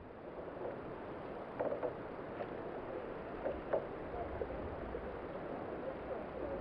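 Water splashing and lapping around a kayak on a river, with a few brief knocks about one and a half to four seconds in.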